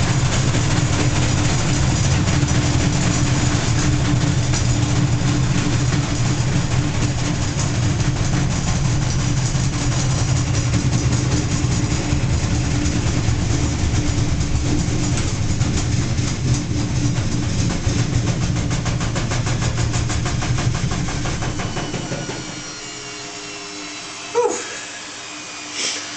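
Washing machine running a loud spin with a heavy low rumble, a steady hum and fast rattling. About 22 seconds in it winds down, leaving a fading, falling whine, and two short sharp sounds follow near the end.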